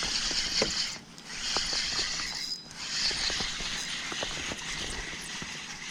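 Fishing reel being cranked, its gears whirring in swells with scattered small clicks as line is wound in.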